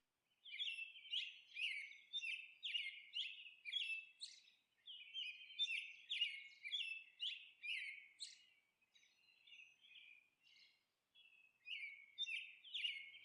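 Faint bird chirping: a run of short, high, falling chirps, about two a second. It stops for about three seconds and starts again near the end.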